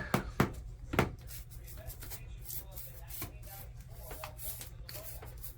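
Brush scrubbing grime off the metal gears of a vintage Singer 111W sewing machine with quick scratchy strokes. There are a few knocks in the first second, and a steady low hum runs underneath.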